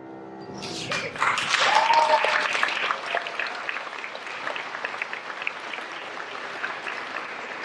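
The last note of a song fades, then an audience applauds. The clapping swells about a second in and then slowly tapers off.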